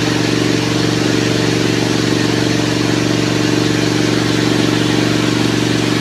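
Heavy rain falling steadily, its hiss joined throughout by a loud, steady low hum like a running engine or motor.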